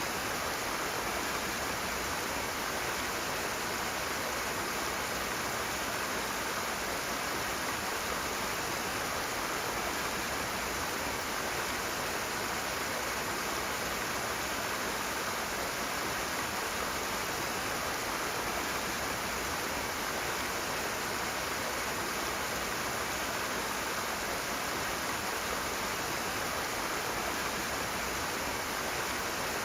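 Rushing water running steadily, an even rush with no breaks or changes.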